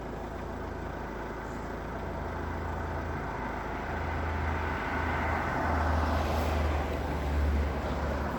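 A motor vehicle's engine running steadily, with road noise that swells over the second half.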